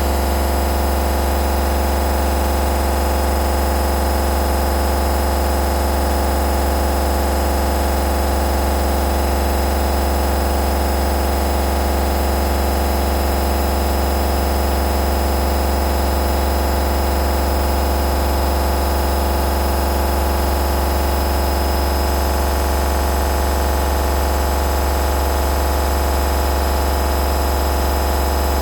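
Hoover DynamicNext 8kg 1400 washing machine running with a steady, unchanging hum and whine from its motor and drum.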